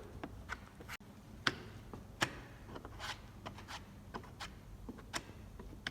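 A few scattered light clicks and taps over a quiet workshop background.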